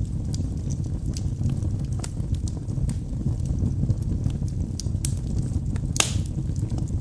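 Wood fire burning in a fireplace: a steady low rumble of flames with scattered crackles and pops from the logs, the loudest pop about six seconds in.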